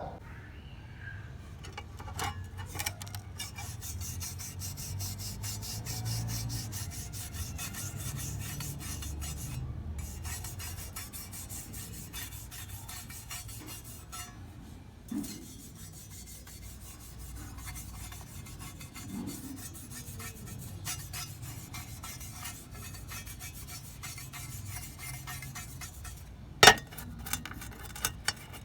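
Quick back-and-forth rubbing strokes as the old trowel is worked by hand, running on continuously, with one sharp knock near the end.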